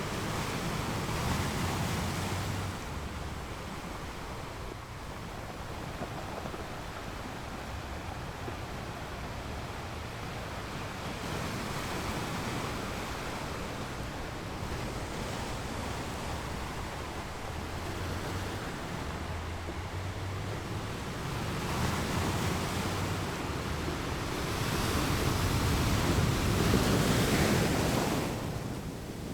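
Ocean waves breaking and washing on a beach, a continuous surf wash that swells and ebbs, with the biggest surge late on.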